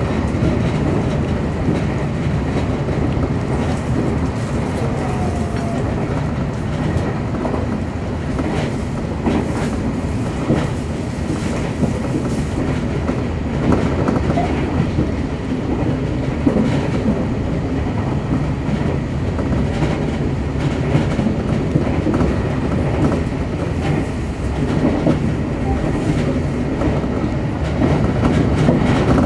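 Semboku Rapid Railway 7020-series electric train running at speed, heard from inside the front of the train. It is a steady rumble of wheels on the rails, with scattered clicks and clacks throughout.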